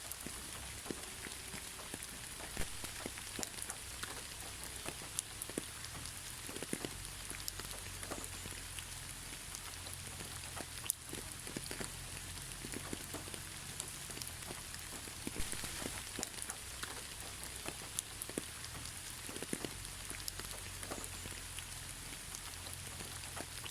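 Steady gentle rain falling, a continuous hiss broken by the sharp clicks of individual drops landing close by, with no thunder.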